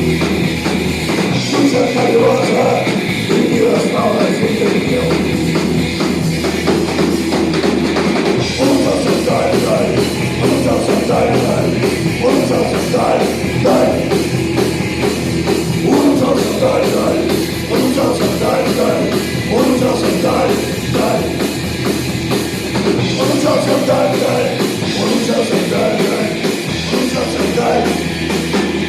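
Rock band playing an instrumental passage: heavy distorted guitars, bass and drum kit at a driving beat.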